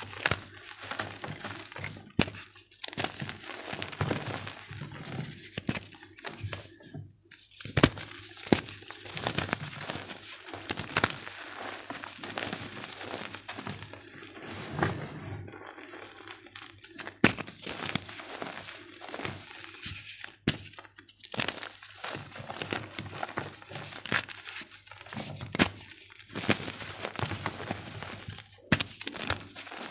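Blocks of gym chalk being crushed and crumbled by hand: irregular crunching and crumbling with soft thuds and a few sharp cracks.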